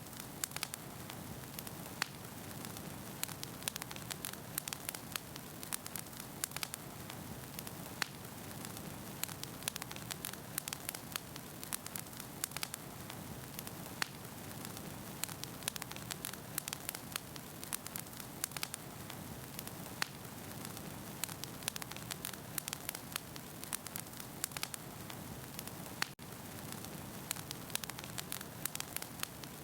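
Wood fire burning in a fireplace: logs crackling with frequent sharp pops over a soft steady hiss.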